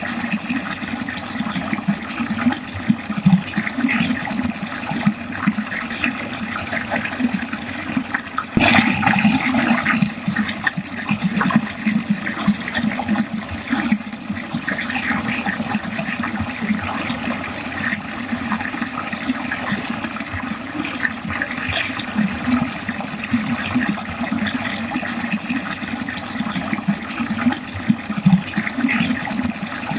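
Water running continuously down a drain, gurgling and splashing, with a short louder surge about eight and a half seconds in.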